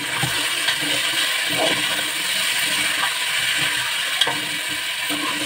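Raw chicken pieces sizzling in hot oil with onions and ginger-garlic paste, a steady frying hiss, with a spoon stirring and knocking against the metal pot a few times.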